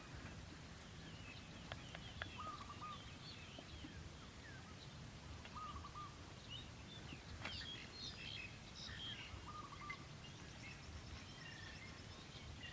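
Faint bird calls: scattered short chirps and whistles, with one short wavering call repeated three times about three and a half seconds apart, over a steady low rumble.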